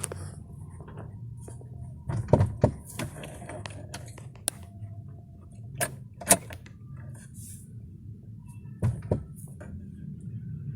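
Toyota 1C four-cylinder diesel engine idling steadily, with several sharp clicks and knocks over it.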